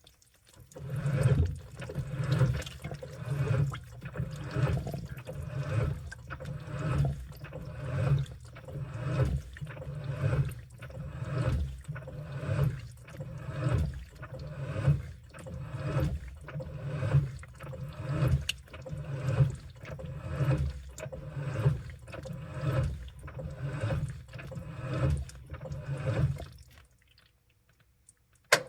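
Washing machine in its wash cycle: water and laundry sloshing in the drum, swelling about once a second as it turns. The sloshing stops near the end, and a single click follows.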